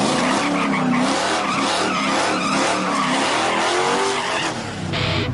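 Car engine revving with tyres squealing and skidding, as a recorded sound effect. Near the end a band with electric guitar comes in.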